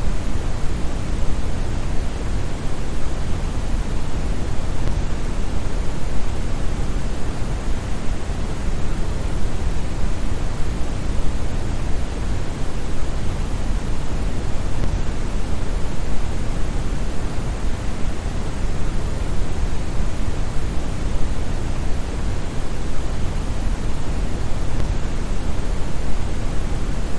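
Steady synthetic brown noise: an even, deep rushing hiss with most of its energy in the bass and little treble, unchanging throughout.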